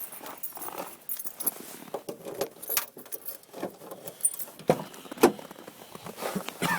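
A set of keys jangling and rattling among irregular handling clicks, with two sharp knocks a little more than halfway through.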